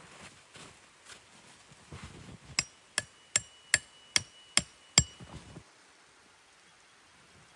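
A hammer striking metal seven times in a quick even run, about two and a half blows a second, each blow ringing briefly. Softer scuffing comes before the blows.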